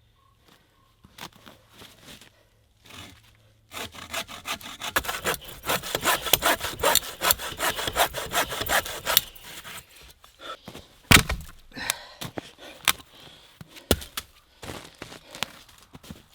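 Hand saw cutting through a piece of firewood in quick back-and-forth strokes for about six seconds, then scattered knocks of wood, with two sharp, loud knocks later on.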